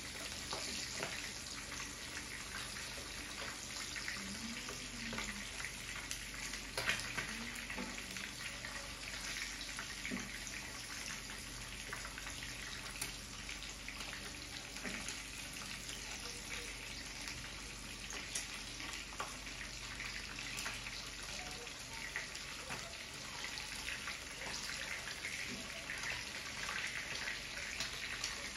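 Meat and onion frying in oil in a nonstick pan: steady sizzling with fine crackling and spitting, and one sharper click about seven seconds in.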